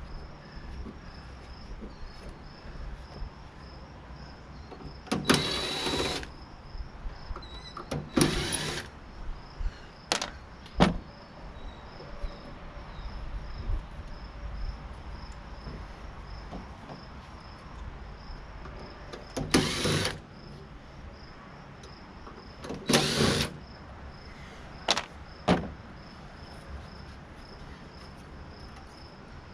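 A handheld power tool run in four short bursts of under a second each, the sound of parts being unscrewed during a teardown, with a few sharp clicks and knocks of metal parts in between.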